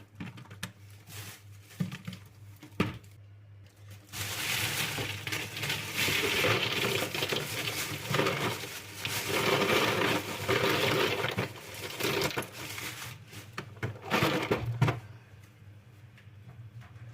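Dry pulses poured into a storage container, a dense rattling rush of hard grains that lasts about eight seconds. Before and after it there are clicks and knocks of the containers being handled, with one louder clatter near the end.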